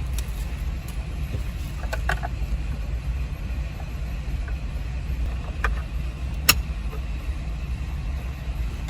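A car running with a steady low hum, with a few light clicks and taps over it. The sharpest click comes about six and a half seconds in.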